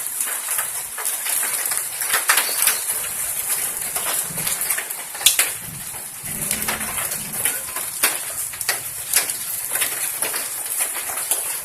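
Hailstones striking hard surfaces in heavy rain: a steady hiss of rain under irregular sharp clicks and taps of individual hailstones.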